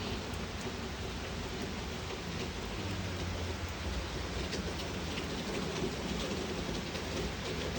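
Steady rain falling, with scattered faint drop ticks and a low rumble underneath.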